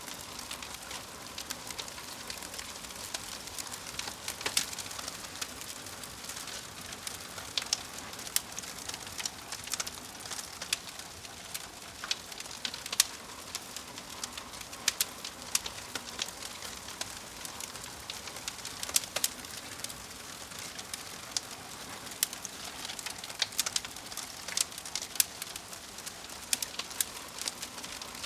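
Wood fire of burning logs crackling: irregular sharp pops and snaps, several a second, over a steady soft hiss.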